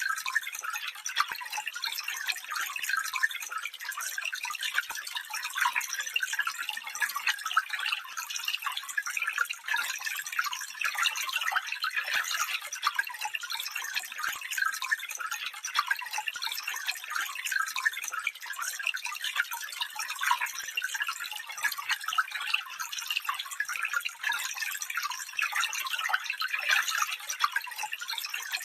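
Small stream trickling and babbling over stones, a steady dense patter of bright water sounds with no low rumble.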